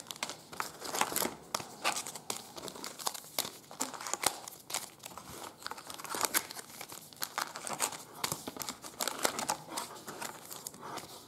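Plastic wrappers of trading card packs crinkling and tearing as the packs are handled and opened, with many irregular crackles throughout.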